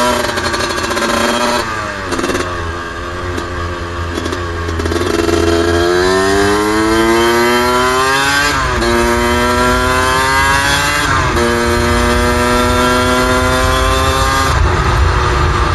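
Suzuki RM125 two-stroke engine under way, its pitch climbing as the bike accelerates and dropping sharply at each of four gear shifts, at about 2, 9, 11 and 15 seconds in. Wind rumbles on the microphone underneath.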